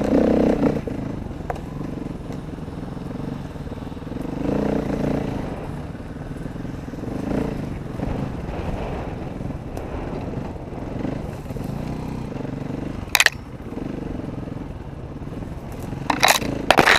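Dirt bike engine running under riding load, its pitch rising and falling as the throttle opens and closes. Sharp knocks cut in about thirteen seconds in and again several times near the end.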